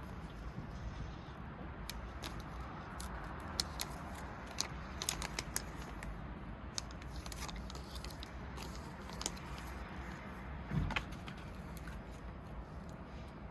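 Scattered light clicks and rustles of small objects being handled, over a steady low hum, with one duller knock about eleven seconds in.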